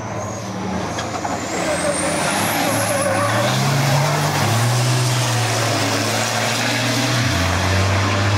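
1000 bhp racing trucks' turbo-diesel engines running hard on track, getting louder over the first couple of seconds. A high whistle rises in pitch over the first three seconds, and the engine note shifts pitch a few times.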